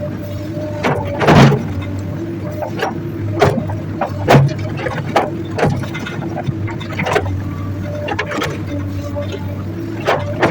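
Hydraulic excavator's diesel engine running steadily under load, while the bucket knocks and scrapes against rock and earth in irregular clanks, the loudest about a second and a half in and again after four seconds.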